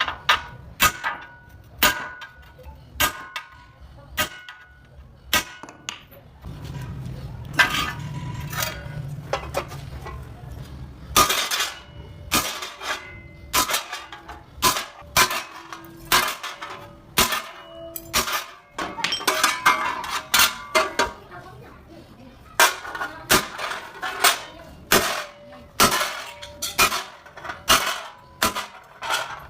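Hammer striking sheet metal over and over at an uneven pace, each blow a sharp metallic clang, some leaving a short ring.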